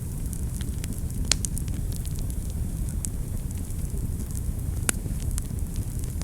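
Wood fire burning in a fireplace: a steady low rumble of flames with scattered sharp crackles and pops, two louder pops about a second in and near the end.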